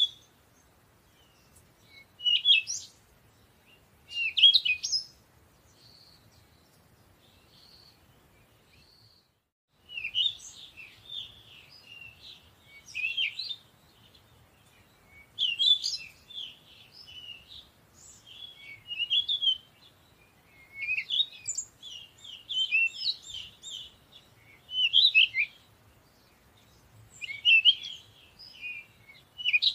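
Small birds chirping and twittering in short high bursts every second or two, sparse with only a few faint single notes through the first ten seconds, then denser and more continuous from about ten seconds in.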